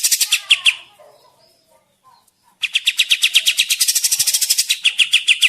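Kapas tembak bird singing: rapid runs of sharp repeated chirps, about ten a second. One run ends under a second in, and after a short pause a long run starts about two and a half seconds in.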